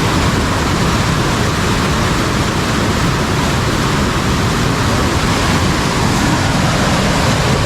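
Fast-flowing river, swollen after rain, rushing steadily.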